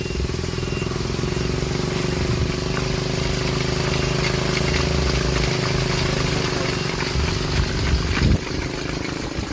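Homemade helicopter's engine running steadily at a low, even speed. A brief louder surge comes about eight seconds in, then it settles a little quieter.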